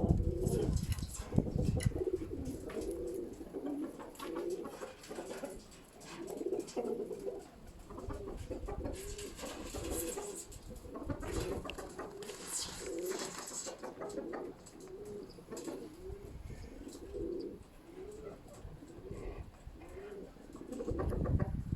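Baku fighting pigeons cooing over and over, with gusts of wind rumbling on the microphone at the start and again near the end.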